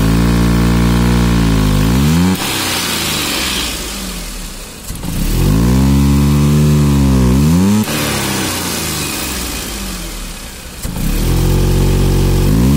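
Maruti Suzuki Alto 800's three-cylinder petrol engine revved three times from idle, each rev held for about two to three seconds and dropping back sharply. This is a hot engine that, per the mechanic, runs unstably and won't pick up properly on the throttle.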